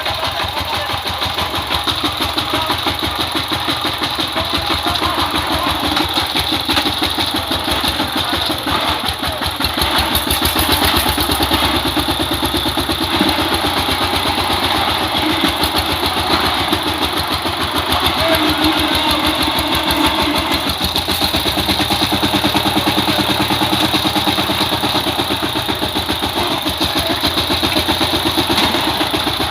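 Power tiller engine running steadily with a rapid, even chugging.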